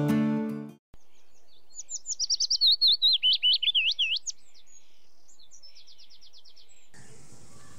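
A small songbird singing a quick run of high whistled notes that slide up and down, then a short rapid trill. Acoustic guitar music fades out in the first second.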